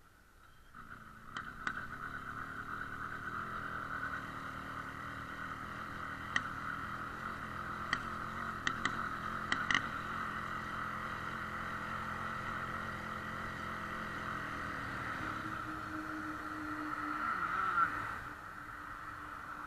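Motorcycle engine catching about a second in and running roughly, with several sharp pops in the first half. It briefly picks up near the end, then drops back. The engine now starts but runs badly.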